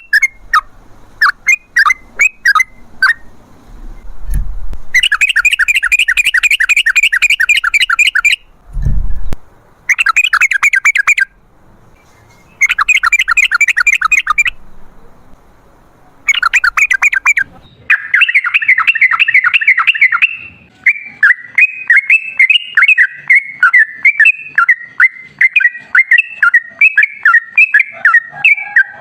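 Yellow-vented bulbul (trucukan) singing: loud bursts of rapid chattering notes with short pauses between them. About two-thirds in, these give way to an unbroken bubbling, warbling song.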